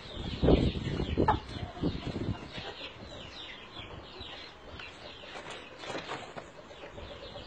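Chickens clucking, with a loud flurry of thumps and wing flapping in the first two seconds or so, as the birds scuffle. Short, high, falling chirps repeat throughout.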